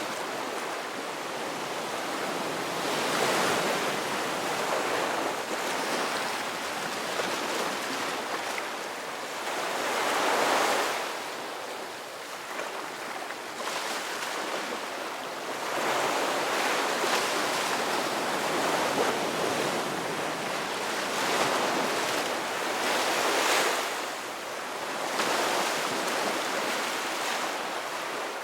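Ocean surf: waves washing in, the noise swelling and easing off again every few seconds.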